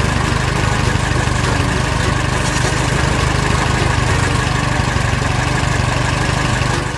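Excavator engine running steadily with a deep, even hum.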